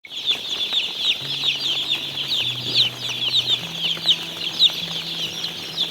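A flock of broiler chicks peeping continuously, many short high chirps overlapping. Underneath is a faint low tone that steps in pitch every second or so.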